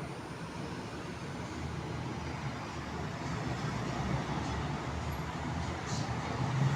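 Jet engine noise from a Boeing 767 freighter: a steady rushing noise that grows slowly louder.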